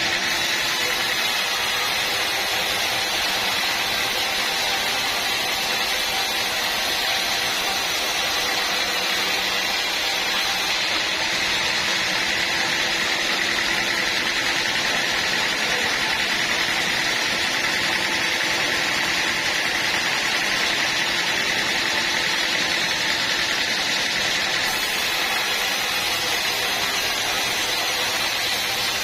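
Sawmill machinery running steadily, a continuous high whine over hiss with no pauses or changes in level.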